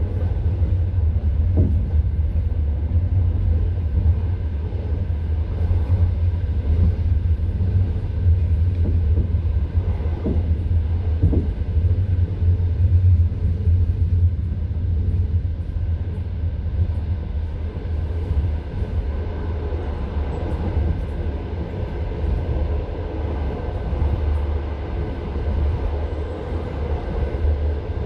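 Passenger railway carriage running along the track, heard from inside the coach: a steady low rumble from the wheels and bogies, with a few knocks of the wheels over rail joints.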